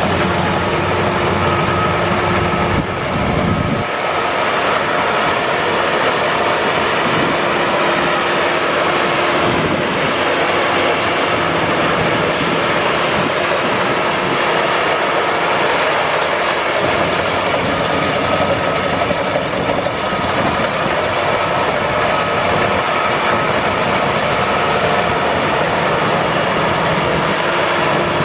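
Maxxi Bimo rice combine harvester running steadily while harvesting: a continuous mechanical din from its engine and threshing machinery, with a few faint steady whining tones. The deeper low rumble drops away about four seconds in.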